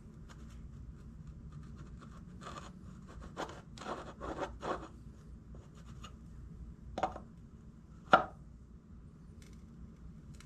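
Tools and metal parts being handled on a workbench: a run of short scrapes a few seconds in, a click, then one sharp knock about eight seconds in.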